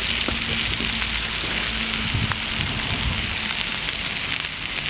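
Food frying in oil in a pan: a steady sizzle, with a few light clicks.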